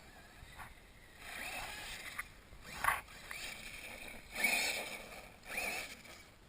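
1/8 scale RC monster truck driven in short throttle bursts: about four spurts of motor whir and tyre noise, the loudest about three and four and a half seconds in.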